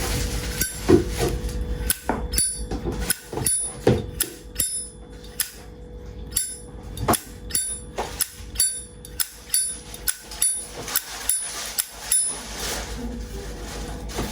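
Brass Zippo lighter's hinged lid flicked open and snapped shut over and over: a quick run of sharp metallic clacks, each with a short ring, two or three a second, stopping about two seconds before the end.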